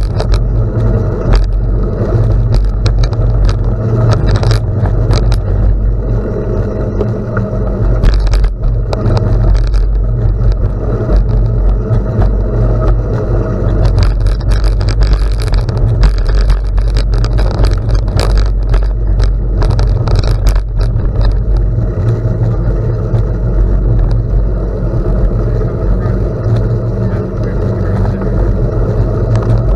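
Bicycle riding on a gravel road: a steady low rush of wind over the microphone, with tyres crunching on gravel and frequent short clicks and rattles from the bike.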